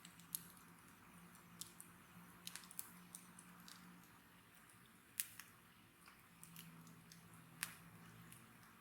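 Wood fire crackling faintly, with a few sharp pops scattered irregularly, the loudest about five seconds in and again about seven and a half seconds in.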